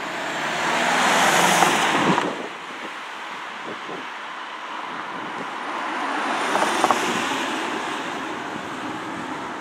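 SNCB Siemens Desiro ML electric multiple unit running past, a steady rushing rail noise. It drops off suddenly about two seconds in and swells again later as a second train goes by, with a few brief clatters.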